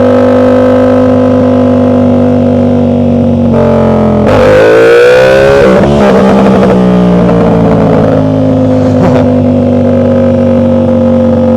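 Motorcycle engine under way, heard from the rider's seat: a steady drone, then revs climbing as it accelerates about four seconds in, an abrupt drop in pitch near six seconds as it shifts up, then steady running at a lower pitch.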